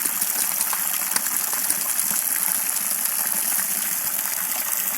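Spring water gushing steadily from a borehole, a constant rushing splash.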